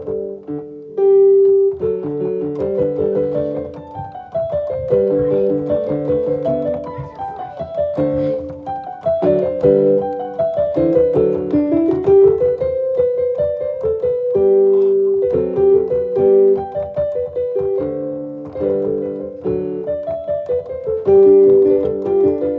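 Background piano music: a gentle melody of held and stepping notes.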